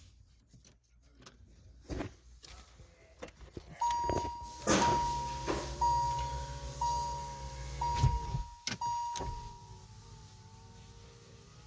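A 2020 Kia Rio's warning chime dings about once a second, six times. Under it a power window motor hums for about three seconds and stops with a click. Scattered clicks and knocks of controls and trim are heard around it.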